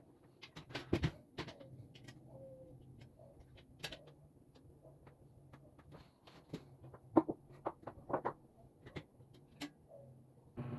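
Irregular clicks and knocks of table parts and tools being handled during assembly of a pre-fab work table, with louder knocks about a second in and again a few seconds before the end.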